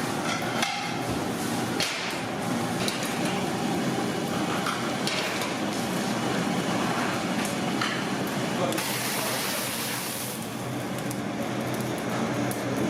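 Busy food-preparation noise: a steady hiss with scattered knocks and clicks, and a brighter stretch of hissing about nine seconds in.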